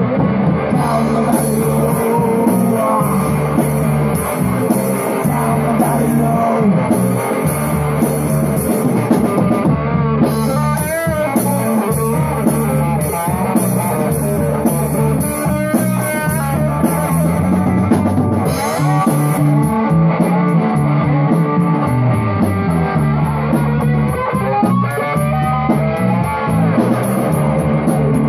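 A three-piece rock band of electric guitar, bass guitar and drum kit plays instrumentally, without singing. The guitar bends and wavers its notes over a steady bass line, and the cymbals keep a quick, even tick in the second half.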